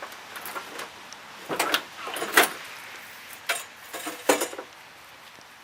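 A series of sharp clanks and scrapes in several clusters, the loudest about two and a half seconds in: a push lawnmower being shoved and wheeled into storage, its metal deck knocking.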